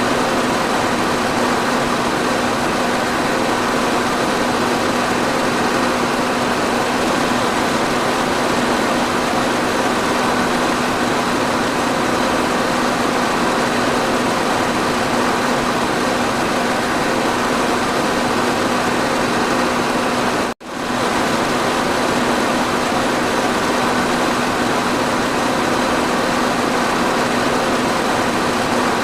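Electric fan running steadily: an even rush of air with a steady low hum. The sound drops out for a split second about twenty seconds in.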